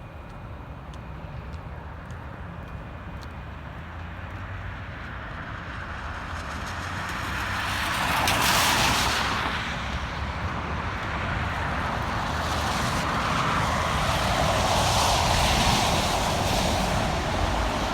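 Vehicles passing on a slushy road: tyre hiss builds to a peak about eight seconds in and fades, then a second one swells near the end, over a steady low rumble.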